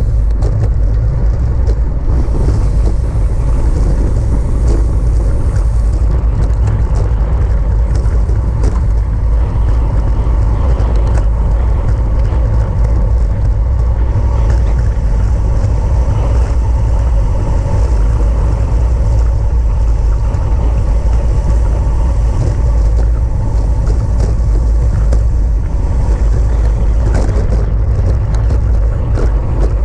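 Steady heavy wind rumble on the microphone from riding a bicycle at racing speed, with an even rushing noise on top.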